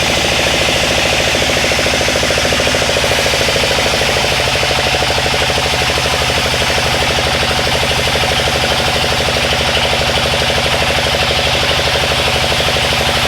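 Sawmill machinery running steadily: an engine with a fast, even pulse under a continuous higher hiss, unchanging throughout.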